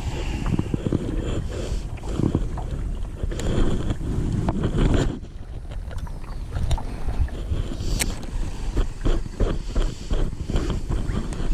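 Wind buffeting the camera microphone in an uneven low rumble, with scattered small knocks and one sharp click about two-thirds of the way in.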